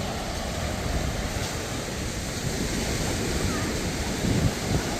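Surf washing onto a sandy beach, a steady rushing noise, with wind buffeting the microphone and a couple of stronger gusts near the end.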